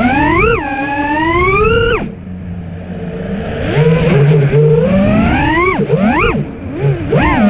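FPV quadcopter's T-Motor F40 Pro IV 1950 kV brushless motors spinning T-Motor 4943 props, whining up and down in pitch with throttle: a long climb that chops off abruptly about two seconds in, a lower steady stretch, then several quick throttle punches near the end. The tune has an angry edge from one banged-up motor.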